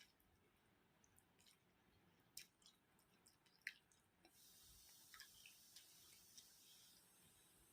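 Faint, wet mouth sounds of someone eating curry and rice: scattered soft smacks and clicks of chewing. A faint hiss comes in about halfway through.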